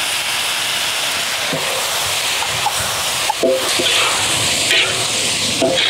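Red chili peppers frying in a hot steel wok: a steady sizzling hiss.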